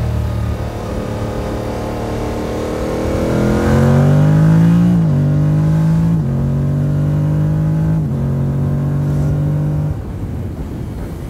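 Motorcycle engine pulling under throttle. Its revs climb, then drop in quick steps about five, six and eight seconds in, like upshifts, and the throttle closes about ten seconds in, where the engine note falls away.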